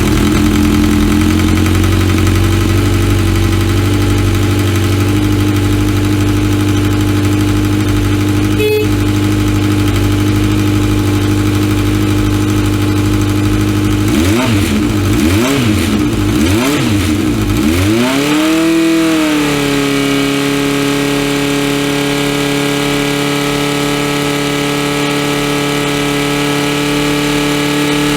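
1983 Honda CBX400F's air-cooled 399 cc four-cylinder engine idling steadily, then revved in several quick throttle blips, each rising and falling in pitch, about halfway through, before settling back to a steady idle.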